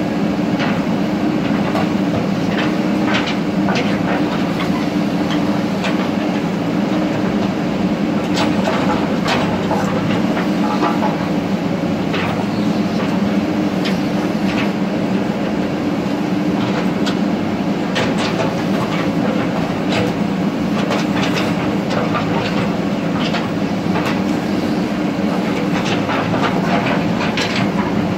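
Diesel engine of a JCB earthmover running steadily under work, with irregular clanks and knocks throughout.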